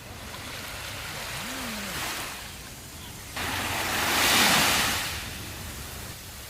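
Sea waves breaking on a sandy beach. A wash of surf swells and fades, then a louder wave breaks suddenly about three and a half seconds in and washes out over the sand.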